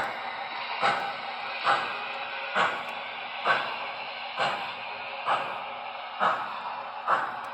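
Model steam locomotive's onboard sound system chuffing slowly and steadily, one chuff a little under every second over a steady hiss.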